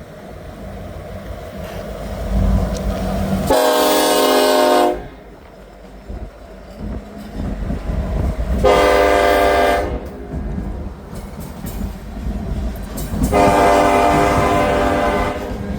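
Freight locomotive's air horn sounding three long blasts, the last one longest, over the low rumble of the diesel locomotive and rolling train.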